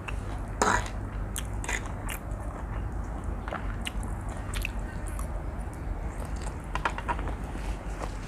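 A person eating instant noodles, chewing with scattered short wet clicks and smacks, a louder one just under a second in, over a steady low hum.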